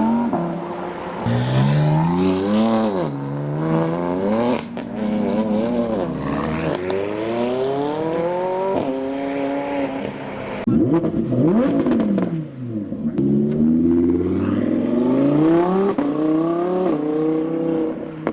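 Audi R8's V10 engine revving hard and accelerating away, the pitch climbing and dropping off sharply again and again through about eight runs.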